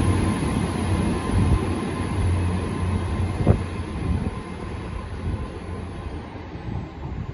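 Hull Trains Class 802 Paragon, a Hitachi bi-mode train, pulling out and moving away, its low rumble fading steadily as it goes. A single sharp click comes about three and a half seconds in, and a thin high whine dies away near the end.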